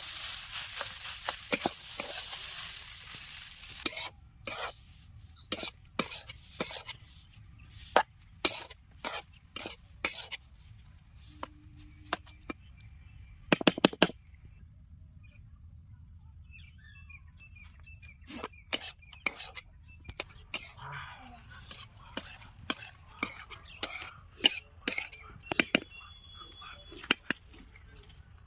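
Fish frying in hot oil, sizzling loudly for about the first four seconds before the sizzle stops abruptly. A long run of separate sharp clicks and knocks follows, with a louder double knock about halfway through.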